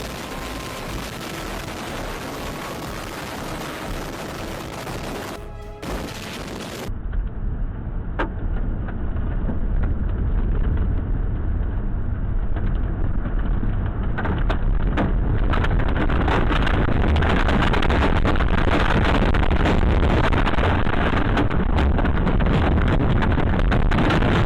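Storm noise: strong wind blowing against the microphone, with clatter and knocks of debris or hail. There is an abrupt change about seven seconds in to a louder, rumbling gust-filled recording.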